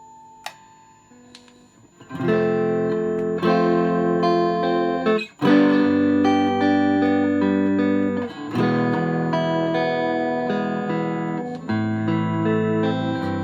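Electric guitar with a home-weighted tremolo block being test-played through an amp. After a near-quiet first two seconds, chords are struck every few seconds and left to ring out until the next one.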